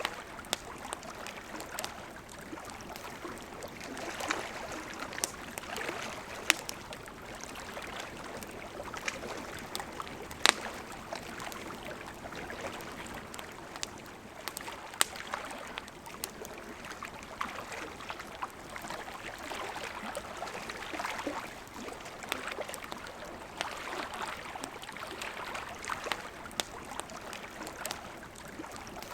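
A river flowing steadily, with a campfire crackling over it in scattered sharp pops, the loudest about ten seconds in.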